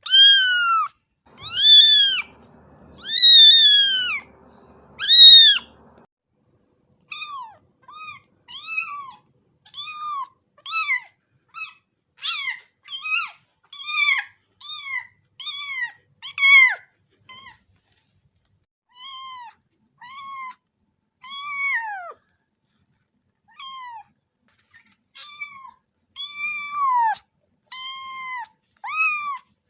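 A cat meowing over and over, high-pitched. First come four loud, drawn-out meows, then a long run of shorter, quieter meows about one a second.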